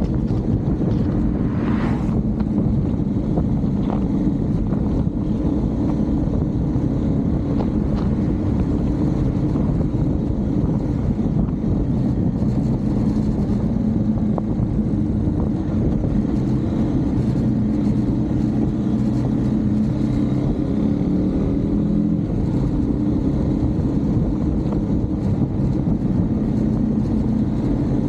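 Husqvarna Svartpilen 401's single-cylinder engine running steadily while riding, its note shifting only slightly in pitch.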